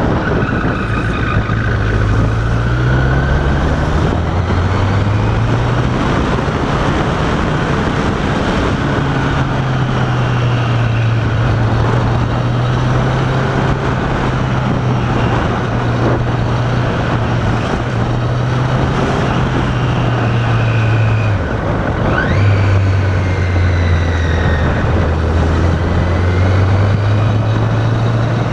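Motorcycle engine running under way with heavy wind and road noise on the rider's microphone. The engine note rises a few seconds in, drops sharply for a moment about 21 seconds in, then picks up again.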